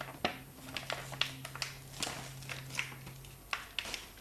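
Parcel packaging being torn and opened by hand: a string of crinkling, rustling and sharp crackles, with a faint steady low hum that stops near the end.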